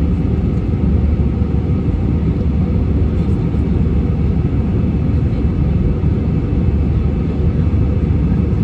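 Steady, loud, low rumble of an airliner's engines and airflow heard from inside the passenger cabin.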